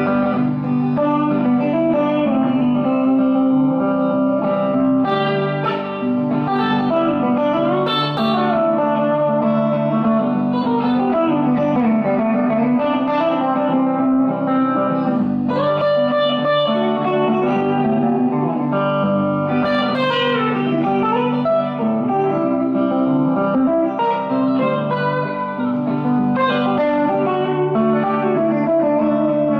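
Electric guitar playing country-style lead lines over a backing track of sustained chords, with several string bends that glide up and down in pitch.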